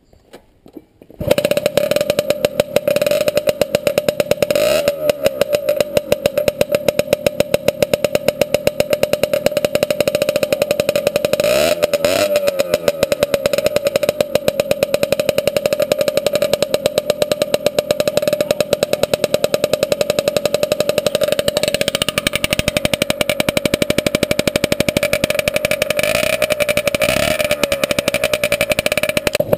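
A CPI SM 50's 50cc two-stroke engine running loud with the rear muffler removed, beginning suddenly about a second in. Its pitch glides up and down briefly about five and twelve seconds in.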